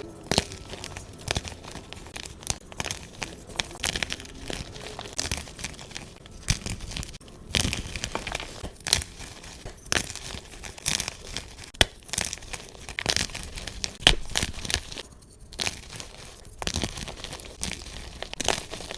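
Gym chalk being crushed and crumbled by hand, giving dense, irregular crunching and crackling with sharp snaps, easing off briefly about fifteen seconds in.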